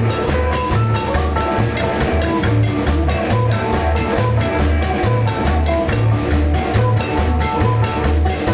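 Rockabilly band playing live: an instrumental passage with drum kit, guitar and a steady, regular bass beat.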